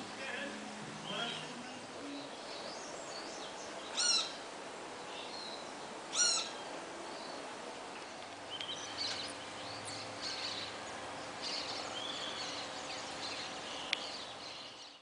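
Birds calling: two loud, short calls about two seconds apart, then a stretch of many quick chirps, with a single sharp click near the end.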